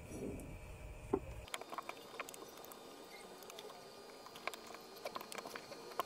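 Scattered light clicks and taps of the plastic ice crusher housing being handled, with a sharper click about a second in; a low hum underneath cuts off about one and a half seconds in. No motor runs.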